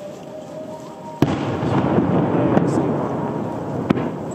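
Firework shell exploding: a single heavy boom about a second in, followed by a long rolling rumble that slowly fades, with a sharp crack near the end.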